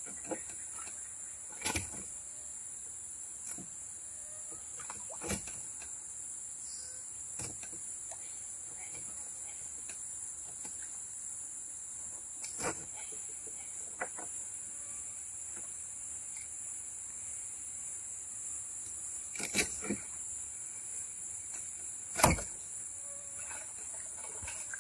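Steady high-pitched drone of an insect chorus, broken by a few short sharp knocks, the loudest near the end.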